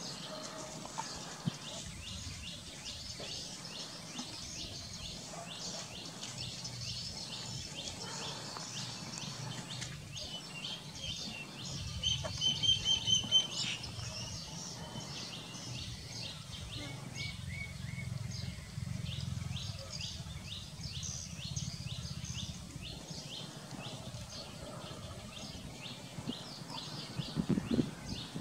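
Wild birds chirping over and over in short, high notes, with a louder run of clear, repeated whistled notes about twelve seconds in.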